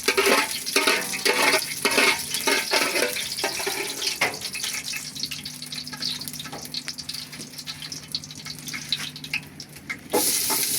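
Spaghetti being stirred in a pot of red palm oil: the spoon scrapes and clicks against the pot for the first few seconds, then a quieter stretch of cooking with a faint low hum, and a sudden loud hiss near the end.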